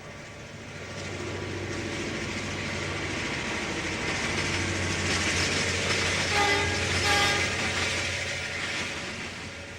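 Diesel freight train led by EMD F7 locomotives approaching and passing at track speed, its engines and rolling noise growing louder, with two short horn notes about six and seven seconds in.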